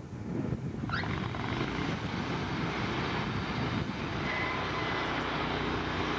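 Sawmill running: a steady engine drone, with a rise in noise about a second in as the saw cuts into the log.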